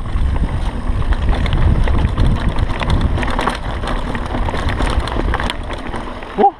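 Mountain bike rolling fast down a dirt singletrack: heavy wind rush on the microphone over the rumble of the tyres, with steady rattling and clicking from the bike over rough ground.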